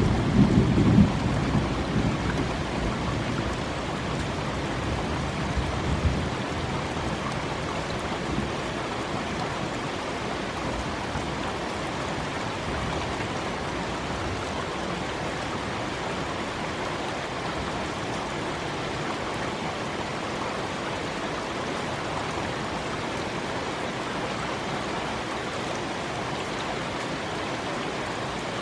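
Steady rain from a thunderstorm, with a low roll of thunder at the start that dies away within the first two seconds. A few clicks of drops hitting the microphone come through the rain.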